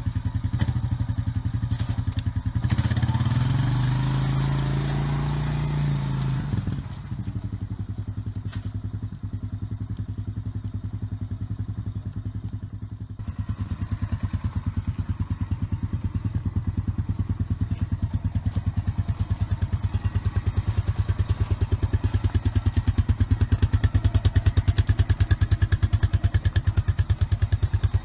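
Honda TRX350 ES quad bike's single-cylinder four-stroke engine running just after starting. The revs rise briefly about three seconds in and fall back by about seven seconds, then it idles with an even, rapid beat that gets a little louder about halfway through.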